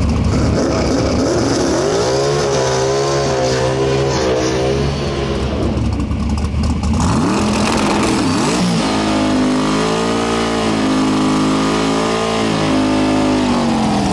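A high-horsepower drag racing car's engine running hard at high revs. Its pitch climbs about two seconds in and holds, drops and climbs again twice in the middle, as at gear changes, holds again, and falls away at the end.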